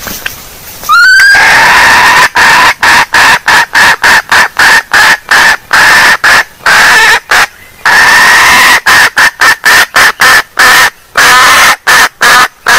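Female junglefowl (hen) calling, used as a lure call for trapping: a rising note about a second in, then a loud run of rapid clucking calls, about three a second, broken by a few longer held notes.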